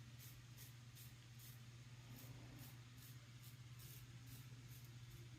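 Quick, soft scraping strokes of a double-edge safety razor (Schick Platinum with a Blue Bird blade) cutting lathered stubble, about two strokes a second, over a steady low hum.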